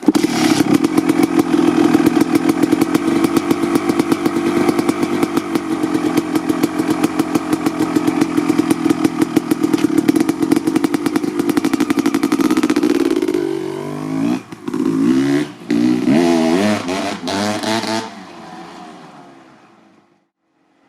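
Honda CR250R's single-cylinder two-stroke engine running steadily with a fast, crackling pulse. In the last third it is blipped up and down in pitch for several seconds, then the sound cuts off sharply, leaving a faint fading noise.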